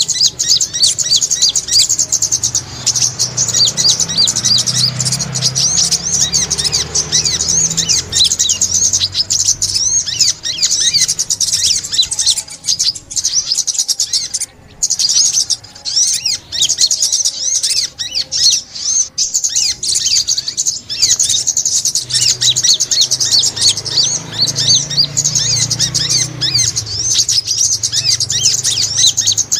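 Sogok ontong, a small bird of the sunbird family, chirping fast and high without a break, many short notes a second.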